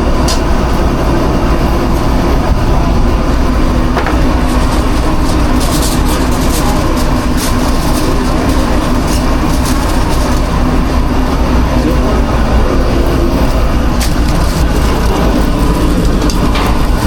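Steady, loud drone of food-truck kitchen machinery running, with a deep hum underneath. Scattered sharp clicks and knocks, most of them a few seconds in.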